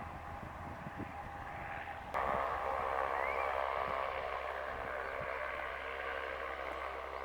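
Light propeller airplane's piston engine droning steadily, suddenly louder from about two seconds in.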